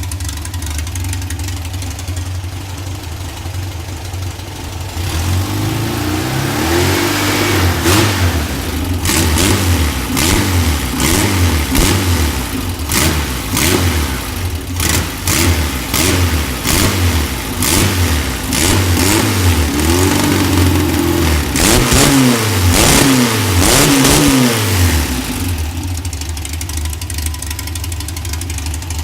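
Newly built VW air-cooled 1955cc stroker flat-four on dual Weber ICT carburettors, idling, then revved up and down again and again for about twenty seconds before settling back to a steady idle.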